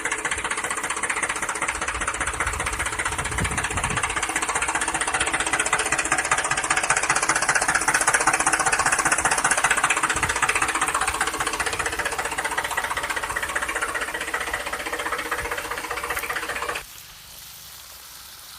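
Small electric motor and plastic gears of a remote-control toy vehicle running with a steady, rapid rattling whir, cutting off about seventeen seconds in.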